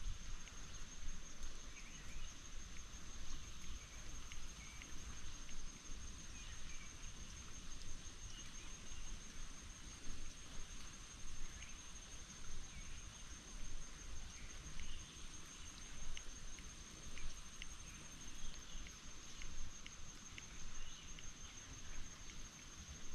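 Steady high-pitched insect trill, with a second fainter, higher trill that stops about eighteen seconds in. Scattered short chirps and a low, uneven rumble sit underneath.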